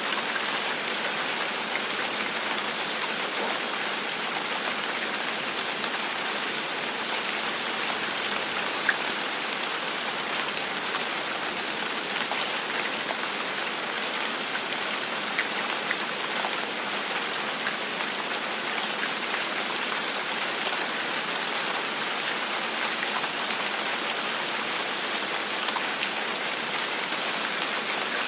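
Steady rain falling, an even hiss with scattered small drop ticks and no thunder.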